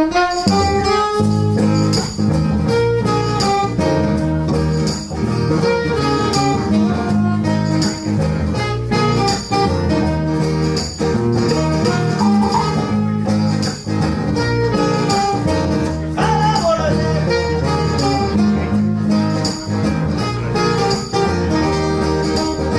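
Live band playing the instrumental intro of a reggae song, with guitar, bass and a steady beat.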